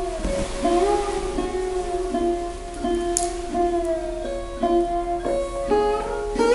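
Music: an acoustic guitar strumming chords, changing chord every second or so.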